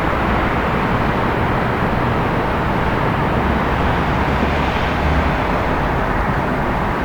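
Steady urban traffic noise: a continuous low rumble and hiss of road traffic with no distinct events, swelling slightly about five seconds in.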